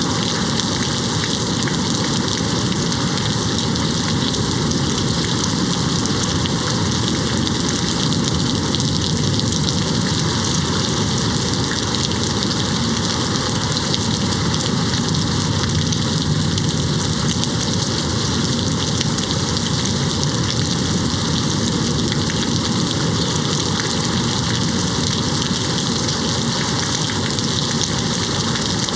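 Steady rain falling and hitting a window, a constant even hiss with no thunder.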